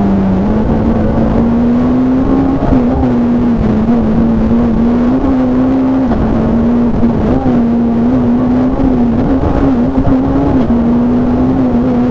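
Rally car engine running hard at high revs, heard from inside the cabin, its note held fairly steady with several brief dips and recoveries, over loud road and cabin noise.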